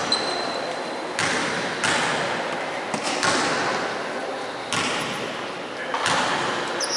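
Basketball game sounds in a gym: a few thuds and bangs from the ball and players on the court, echoing in the hall.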